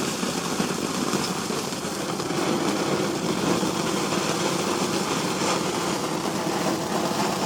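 Garden firework fountain spraying sparks, a steady loud hissing rush with a fine crackle.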